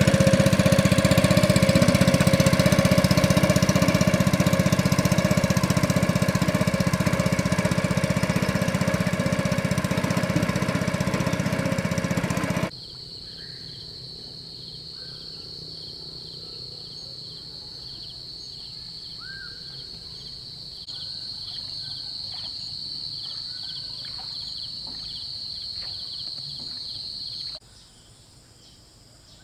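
An engine running steadily for about the first thirteen seconds. It then cuts off suddenly to a steady high insect drone with a faint regular pulsing and a few short bird chirps.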